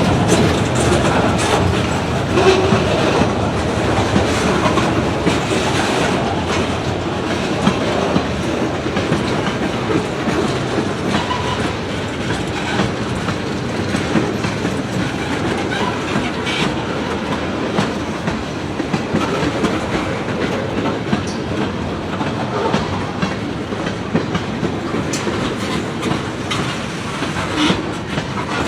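Freight train cars rolling past, their wheels clattering steadily over the rail joints.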